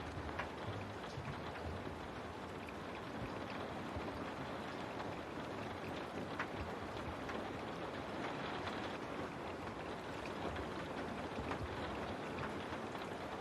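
Steady rain on a window: an even hiss with scattered sharper drop hits now and then.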